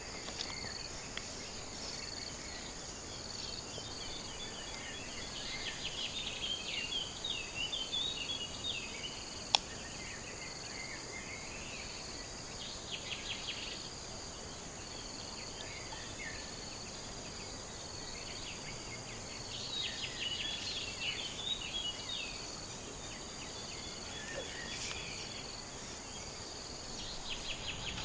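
Forest ambience: a steady, high-pitched insect drone with several bouts of bird chirping, and a single sharp click about ten seconds in.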